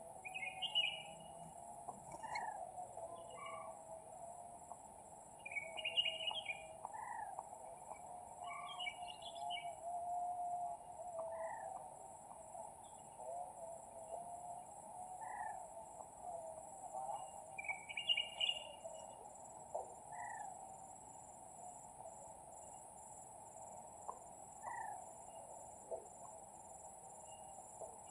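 Birds calling: short bursts of chirps every few seconds and small falling notes over a continuous warbling chatter, with a steady high hiss throughout.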